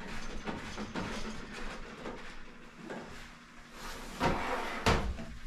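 A Chinese diesel heater being handled and turned over to look at its underside: light knocks and scrapes, then a louder clunk about four seconds in and a sharp knock just after.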